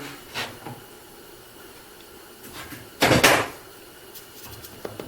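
Wooden jointer sled with a board clamped in it being handled in the shop: a light click under half a second in, then a loud double knock about three seconds in, and a few faint clicks near the end.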